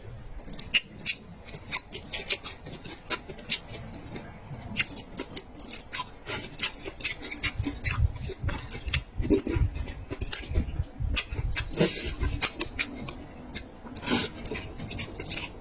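Close-up chewing and mouth sounds of someone eating meat: a quick, irregular run of short smacking clicks, a few a second.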